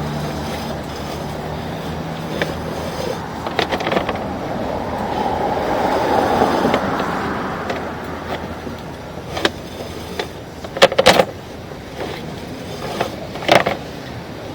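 Street traffic going by, with one vehicle swelling and fading through the middle, then several sharp knocks or clicks in the second half.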